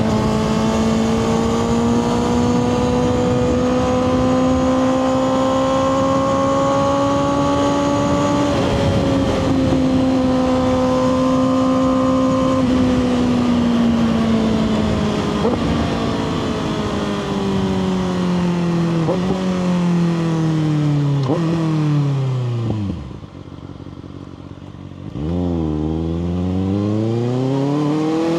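2024 Kawasaki ZX-6R's inline-four with a Two Brothers slip-on exhaust, holding steady high revs, then downshifting through the gears with short throttle blips as the bike slows. It drops to a brief quiet idle, then accelerates hard with the revs climbing steeply near the end.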